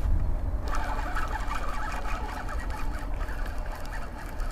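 A dense chatter of bird calls that starts abruptly about a second in, over a low rumble of wind on the microphone.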